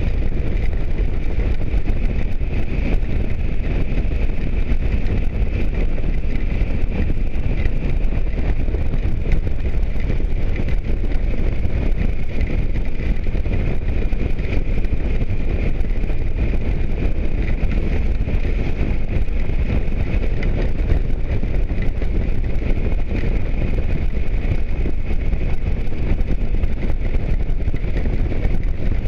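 Motorcycle riding at a steady speed, with wind rushing over the microphone and a steady high whine held throughout.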